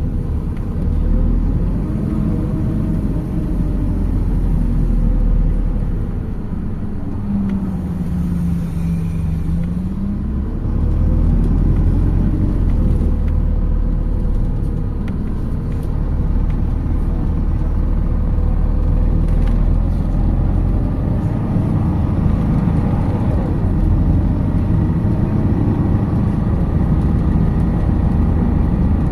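MAZ 206 city bus driving, its diesel engine and drivetrain running steadily as heard on board, with the engine note dipping and climbing back again about a third of the way in as the bus changes speed.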